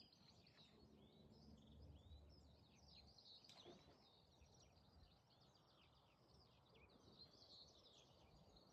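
Faint birdsong: many quick chirps and trills from several small birds overlapping, over a low steady rumble of background noise.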